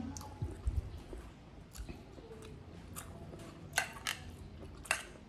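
Chewing and mouth sounds of a person eating by hand, with a few sharp smacking clicks near the end.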